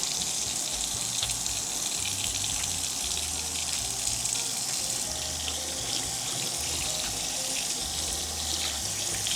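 Faucet running steadily into the sink while hands are washed under it.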